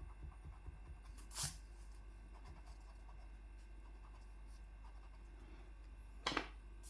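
Two brief scratchy rustles of paper and pencil, one about a second in and one near the end, over a faint low hum.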